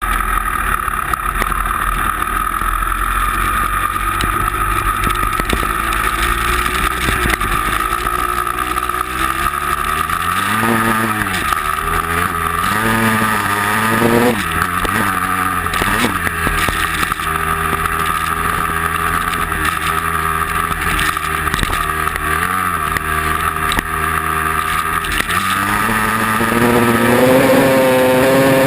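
A vehicle's engine running, revving up and down several times around the middle and climbing in pitch near the end, with a steady high whine throughout.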